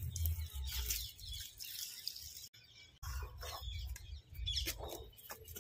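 Birds chirping in short, repeated calls over a low rumble, with a brief break about halfway through.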